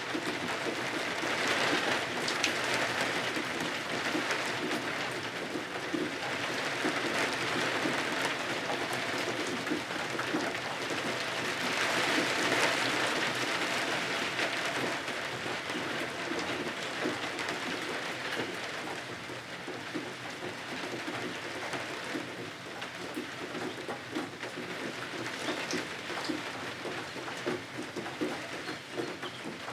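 Steady rain falling, a dense even hiss of drops that swells a little early on and again about twelve seconds in, then eases somewhat in the second half.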